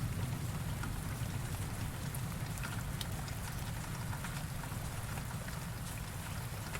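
Steady rain pattering on a surface, with many small drop ticks. A low rumble of thunder dies away over the first seconds.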